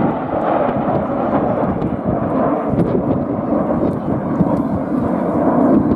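Jet engine roar from the Red Arrows' BAE Hawk trainers flying their display: a loud, steady rumble that swells slightly near the end.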